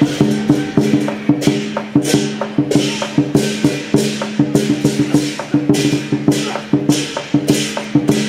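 Lion dance percussion band playing drum, gong and cymbals: rapid sharp strikes with cymbal crashes about every half second to second, over a steady ringing tone.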